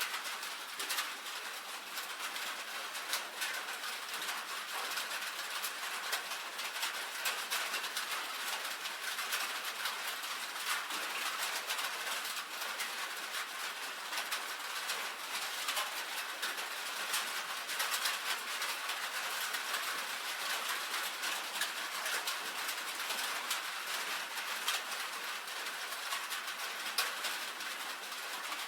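Rain falling on a tin roof: a dense, steady patter of countless small drop taps on the metal.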